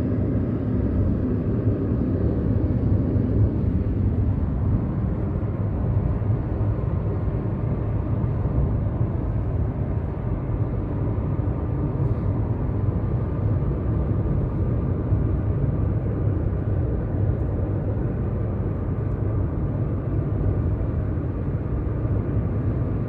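Steady engine and tyre noise of a car cruising on a highway, heard inside the cabin as an even low rumble with a faint steady hum.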